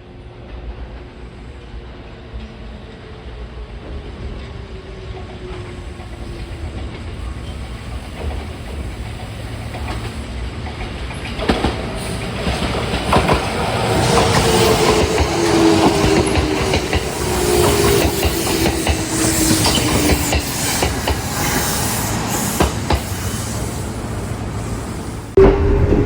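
Kintetsu 1253-series and 2430-series electric train pulling into a station. It grows steadily louder as it nears, its motor tone falling in pitch as it slows, with wheels clacking over rail joints. It gets abruptly louder about a second before the end.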